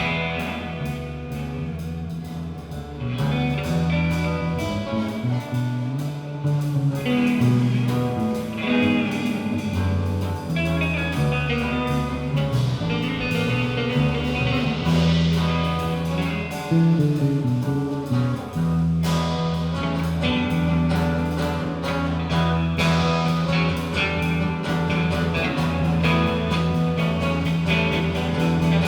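Live band playing an instrumental passage: guitar over held, shifting bass notes, with drums keeping time.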